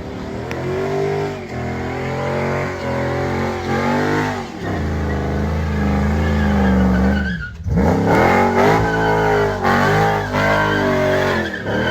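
A truck's engine being revved hard over and over, the revs climbing and falling in quick pulls. About halfway through it holds high for a couple of seconds, drops off sharply, then revs up again.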